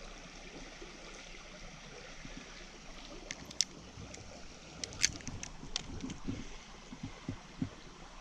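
Small mountain stream running steadily over rocks, with a few sharp clicks about three seconds in and a louder cluster about five seconds in.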